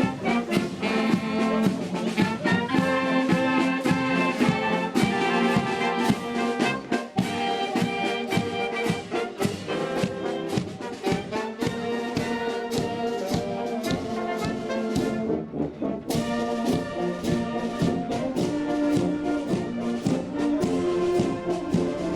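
Volunteer fire brigade brass band playing, trumpets and trombones carrying the tune over steady drum and cymbal strokes.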